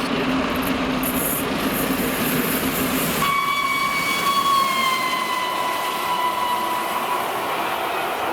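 A train passing at speed. About three seconds in, a single-note whistle sounds and is held for about four seconds, its pitch slowly falling.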